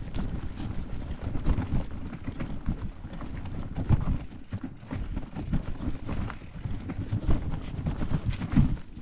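Mountain bike rolling over a rough, rocky trail: a steady low rumble of wind buffeting the microphone, with frequent rattles and knocks from the bike and camera jolting over stones.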